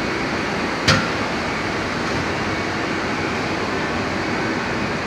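Steady machine-shop background noise, a constant mechanical hum and hiss, with a single sharp click about a second in.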